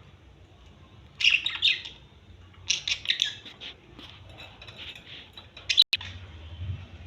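Small pet parrots chirping in short, rapid bursts: a cluster about a second in, another around three seconds, and a sharp chirp near six seconds, with fainter chirps between.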